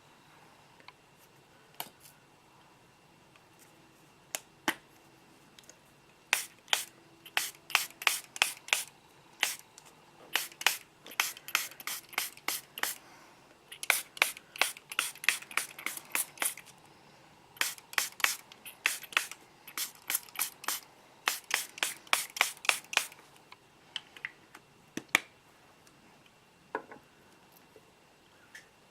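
Trigger spray bottle misting plants, pumped in quick runs of short sprays, about two or three a second.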